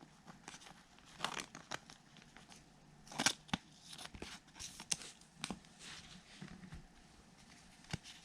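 Baseball trading cards being flipped and slid one behind another by hand: a run of light snaps and rustles, the sharpest a little after three seconds in.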